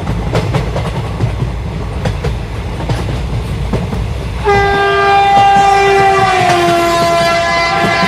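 Train running with a low rumble and wheels clacking over rail joints, then, about four and a half seconds in, the locomotive's horn sounds one long blast that dips slightly in pitch and holds to the end.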